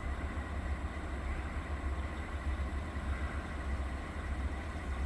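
Distant heavy construction machinery running: a steady low engine rumble.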